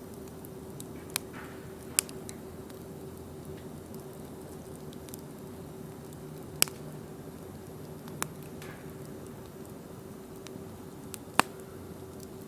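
Wood campfire crackling: scattered faint ticks and five sharp pops, over a steady low hum.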